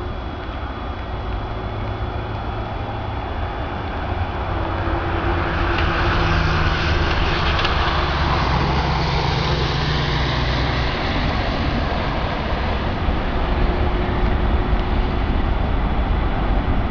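Boeing 747's four turbofan engines at takeoff thrust: a steady jet roar and rumble that swells a few seconds in, peaks as the airliner passes, then eases slightly.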